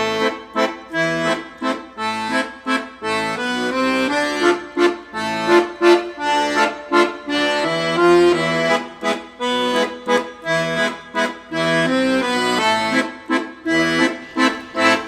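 Background music: an accordion tune of short, quick notes with a steady beat.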